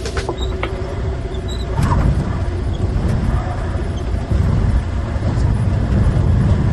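Steady low rumble of a running vehicle, which grows louder about two seconds in.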